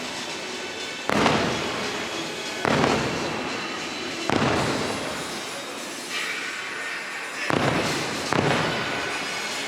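Aerial fireworks shells bursting: about five sudden booms, each fading away over a second or so, with show music faintly beneath.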